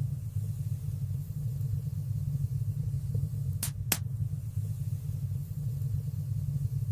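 Wood fire burning in a fireplace: a steady low rumble, with two sharp crackles close together about three and a half seconds in.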